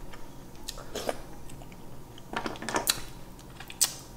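Close-miked eating of shrimp and mussels: chewing with scattered wet mouth smacks and sharp little clicks. The clicks bunch up past the middle, and the sharpest comes near the end.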